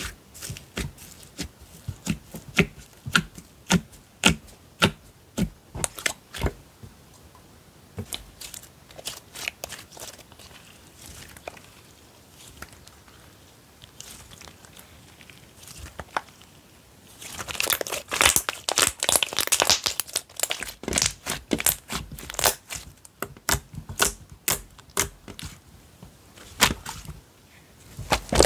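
Slime being squeezed and stretched by hand, giving a string of sharp pops and clicks, with a dense crackling run about two-thirds of the way through.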